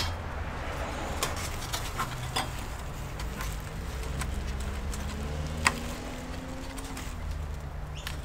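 Scattered light clicks and taps of hands working on a laptop-style RAM module and the parts around it inside an all-in-one PC, the module not seated properly, over a low steady hum.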